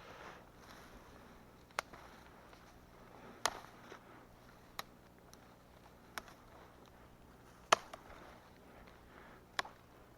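Sharp single snaps of wood, about six spread irregularly over ten seconds, the loudest near the end, over a faint steady background.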